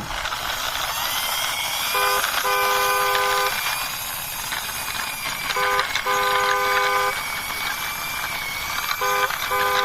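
Car horn sound, a short toot then a long toot, heard three times about three and a half seconds apart, over a steady hiss.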